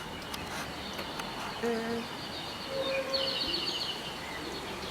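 Outdoor background noise with birds chirping, including a quick run of repeated chirps about three seconds in.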